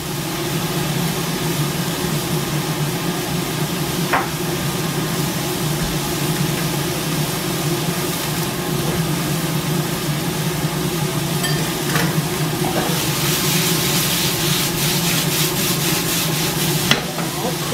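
Scallops, beech mushrooms and scallions sizzling in a wok over a steady low hum, with a few single clicks. In the last few seconds the food is tossed, and the sizzle grows louder with a quick rattling of food moving in the pan.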